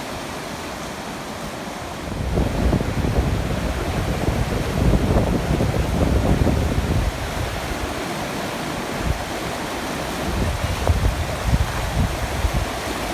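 Floodwater rushing steadily, with wind buffeting the microphone in gusts from about two seconds in.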